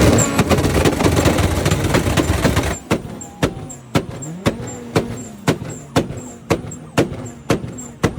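A tuned car engine held against a two-step launch limiter, running with rapid popping and crackling, cuts off suddenly about three seconds in. After that, a steady ticking sounds about twice a second.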